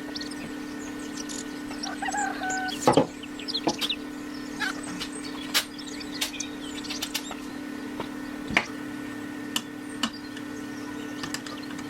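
Steady low hum, with scattered sharp knocks and clicks and a few short bird-like calls.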